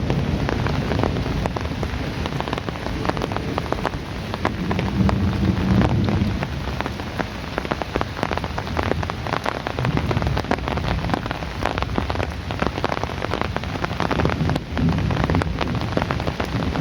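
Heavy rain: a steady hiss thick with individual drops striking a hard surface. Low rumbles of distant thunder swell and fade about three times.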